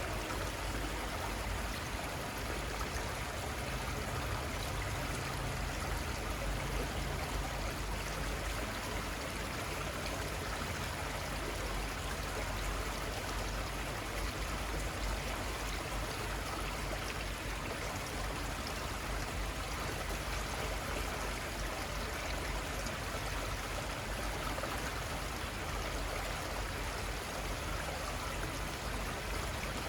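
River water flowing over its bed in a steady, even rush that holds constant throughout.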